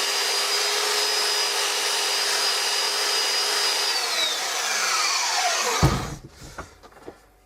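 Handheld electric power tool running at full speed, a steady whine over a noisy rasp. About four seconds in it is switched off: the whine falls in pitch as the motor spins down and stops near six seconds, followed by a few light knocks.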